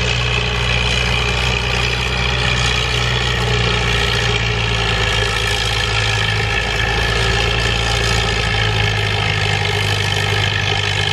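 Farm tractor engine running steadily at a constant speed, with no revving.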